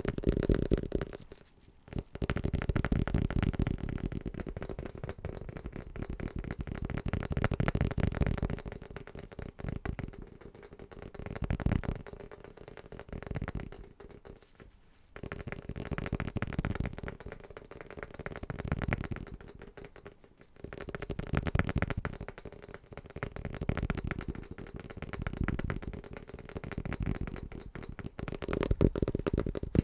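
Fast, aggressive tapping on household objects: dense, rapid taps in stretches of a few seconds, broken by short pauses a few times.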